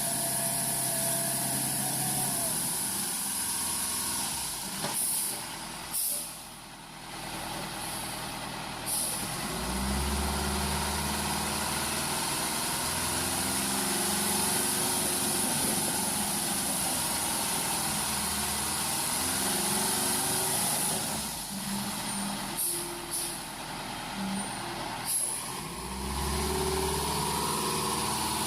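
Heavy diesel truck running, its engine note rising and falling, with a brief drop in level about six seconds in.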